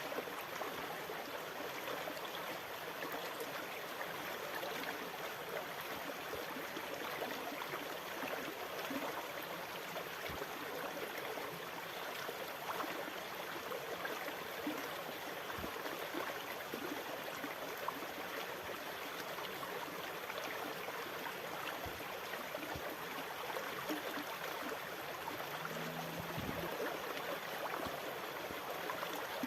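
Sea water making a steady, even rush, with a few soft low thumps.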